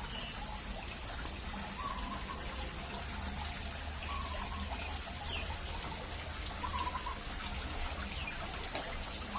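Water trickling steadily, with a few faint short chirps every two seconds or so.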